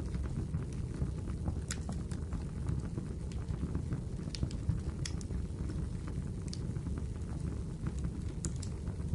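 Wood fire crackling: a steady low rumble of burning firewood with sharp pops and snaps at irregular moments, a handful of them louder than the rest.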